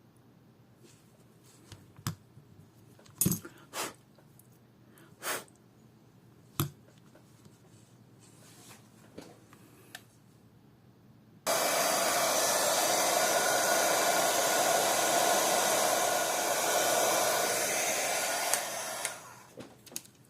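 A few small clicks and taps of tools on the watch, then a hair-dryer-type blower switched on, running steadily and loudly for about seven seconds and dying away near the end.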